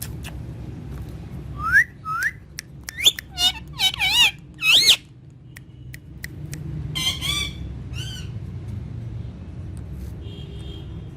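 Pet parrot calling: a quick run of short whistles and squawks, some sliding up in pitch, followed a few seconds later by a few more calls.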